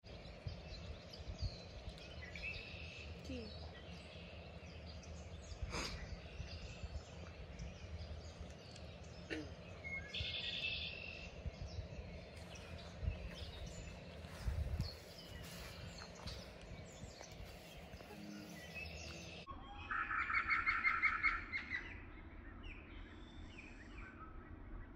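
Several wild birds singing and calling, with short chirps throughout and a louder rapid trill of repeated notes about twenty seconds in, over a steady low background rumble.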